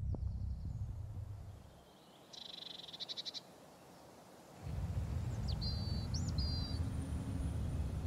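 Outdoor ambience with birds: a low drone fades out over the first two seconds, then a short, rapid high trill comes at about two and a half seconds. A few high bird chirps follow near the six-second mark, over a low steady rumble that returns just before the middle.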